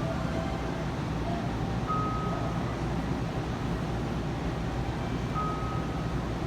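Yokohama Municipal Subway 4000 series train running, a steady rumble with two brief high tones, about two seconds and five and a half seconds in.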